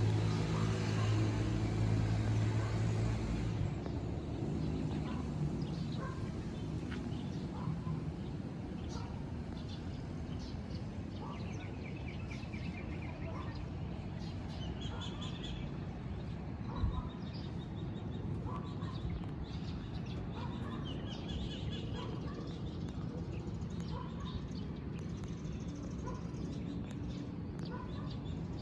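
Birds chirping outdoors, one short call repeating about once a second with a few higher trills, over a steady low rumble of background noise. A low hum in the first few seconds cuts off suddenly.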